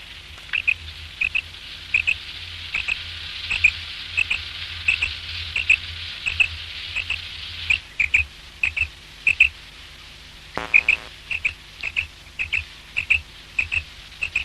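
Common quail calling: short, sharp, high notes, mostly in quick pairs, repeated rapidly over and over. A steady hiss sits under the first half and stops about 8 seconds in, and a single brief, lower, buzzy call comes about two-thirds of the way through.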